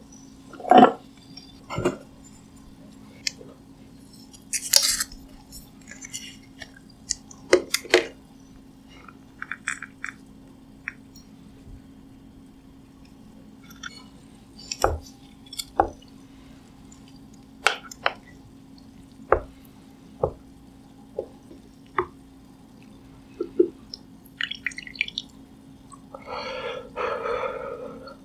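Eating utensils clinking and tapping against a bowl of sundae gukbap, with broth dripping, heard close up as scattered single clicks over a faint steady hum. Near the end comes a longer, noisier stretch of about two seconds.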